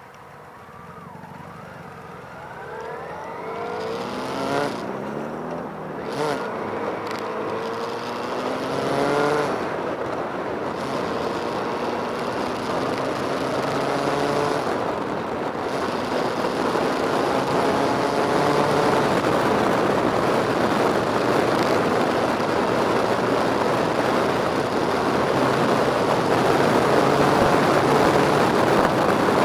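Motorcycle engines revving with several rising pitch sweeps over the first ten seconds, then running together and growing steadily louder as they come closer.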